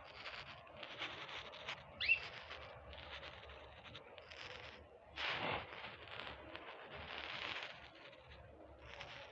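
Small birds chirping and twittering: a run of short scratchy calls, with one brief clear chirp about two seconds in.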